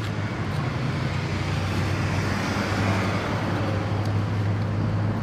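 Steady low hum under an even rushing noise that swells briefly about halfway through.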